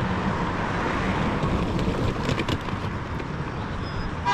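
A car driving by close, a steady wash of engine and tyre noise.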